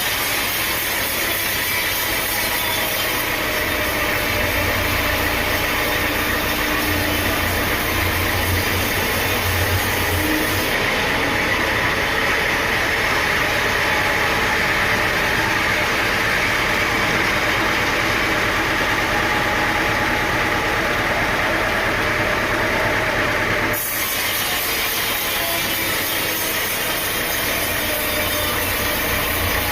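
Sawmill machinery running with a loud, steady, engine-driven din and a dense hiss over a low hum. The sound breaks off briefly and resumes about 24 seconds in.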